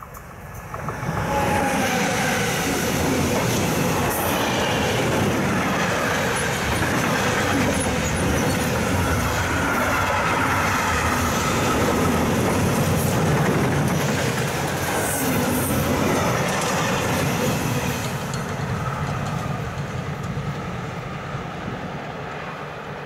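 Freight train passing close by, its wagons and wheels rolling along the track behind a class 185 electric locomotive. The sound rises quickly about a second in, holds loud and steady, then fades over the last few seconds as the train moves away.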